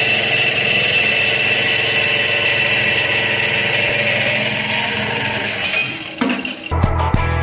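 Automatic metal-cutting band saw running with a steady high whine over a lower hum, stopping about six seconds in. Rock music with guitar starts near the end.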